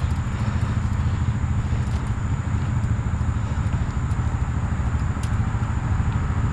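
An engine running steadily at idle nearby, a constant low rumble.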